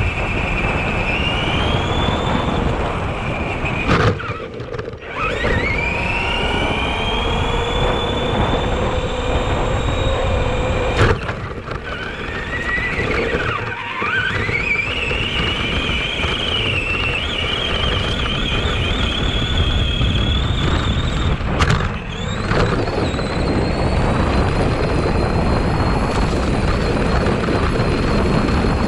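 Electric motor of an RC monster truck, an Arrma Granite 4x4, whining as it drives, over a steady rough drivetrain and tyre noise. The whine rises in pitch each time the truck accelerates. Several times it cuts out briefly and then climbs again as the throttle comes back on.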